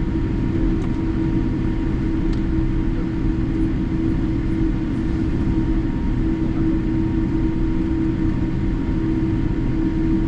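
Steady drone of a Boeing 787-8 airliner heard from inside the passenger cabin, from its two General Electric engines and the airflow, with a constant low hum and a faint thin tone above it.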